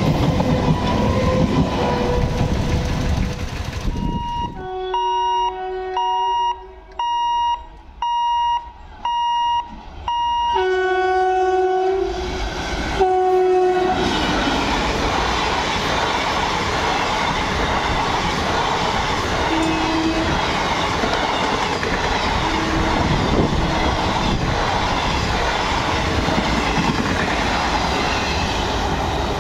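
A suburban EMU local train running past, then an Indian Railways electric locomotive's multi-tone horn sounding about six short blasts followed by two longer ones. After that the locomotive and its Intercity Express coaches rush past with steady loud wheel-on-rail noise.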